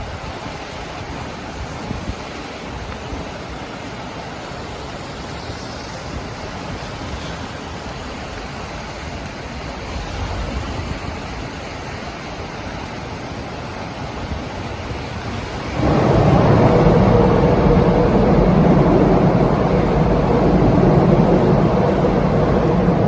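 Steady wind noise on the microphone, then about two-thirds of the way in a Sotetsu 9000 series electric train comes onto the steel river bridge and crosses it with a sudden, much louder low rumble and a steady humming tone.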